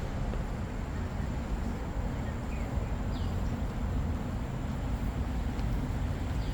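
Steady outdoor trail ambience: an even low rumble throughout, with a faint constant high-pitched tone and a short falling chirp about three seconds in.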